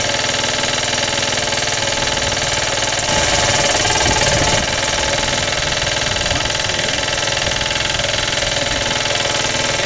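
Rebuilt Suffolk engine running steadily with a loud, rhythmic knock, a little louder for about a second and a half some three seconds in. The owner suspects the knock comes from the clutch or the cooling shrouding.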